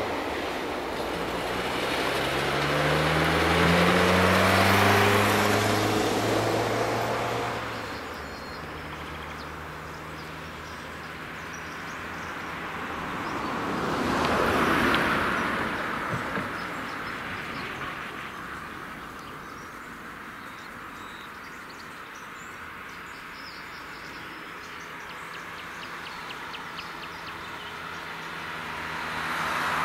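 Road vehicles passing over a railway level crossing. For the first several seconds an engine is accelerating away, its pitch rising in steps as it changes gear. About halfway through, another vehicle approaches and passes by, then the sound settles to a low steady hum.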